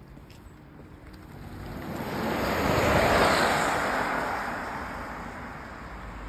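BMW iX electric car driving past: tyre and wind noise with no engine note, swelling to a peak about three seconds in and fading away.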